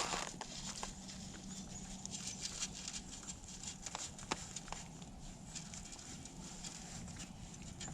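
Moose moving through crisp, cold snow: scattered light crunches and clicks at an uneven pace.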